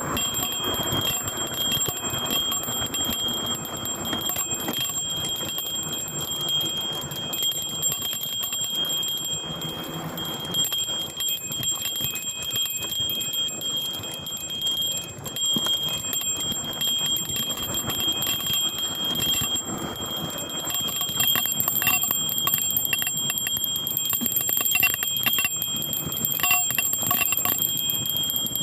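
A bell ringing constantly, shaken by a mountain bike on a bumpy downhill descent, giving a steady high ring over rushing trail and wind noise. Rattling and clicking grow busier in the last several seconds.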